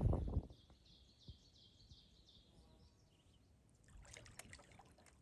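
A small songbird singing a faint run of quick repeated high chirps, about four a second, for two to three seconds. Soft scattered clicks and splashes follow about four seconds in.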